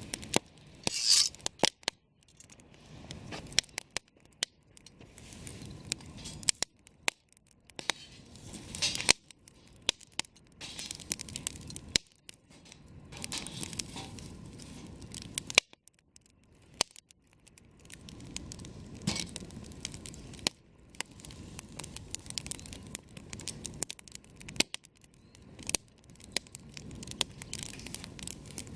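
Wood campfire crackling: irregular sharp pops and snaps over a soft hiss of burning, with the loudest snaps about a second in and again past the middle.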